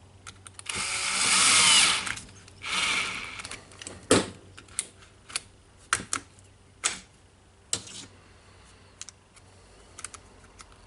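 Power screwdriver driving screws in two short runs, one lasting about a second and a shorter one just after, followed by scattered clicks and knocks of metal and plastic parts being handled.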